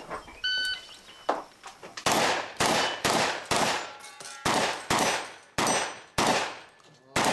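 Shot-timer start beep, then a rapid string of shotgun shots about two a second, starting about two seconds in. Steel targets ring after some of the hits.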